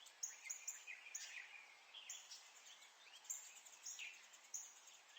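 Near silence with faint, scattered bird chirps, short high calls a few times a second.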